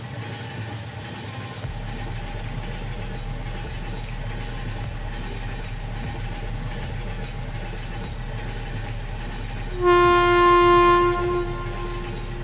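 A train or tram horn sounds once near the end, one loud steady note lasting about a second and a half before tailing off, over a steady rumble of the rail vehicle running.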